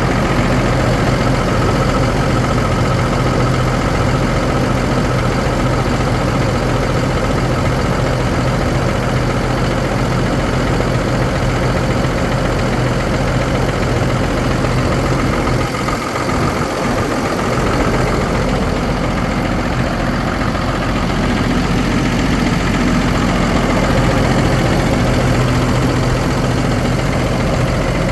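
Ford F650 Super Duty truck engine idling steadily, with a brief dip in its low hum about two-thirds of the way in.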